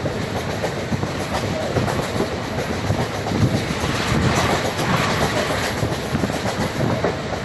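Indian Railways passenger train running along the track: a steady rumble of the moving coaches with the clickety-clack of wheels over rail joints.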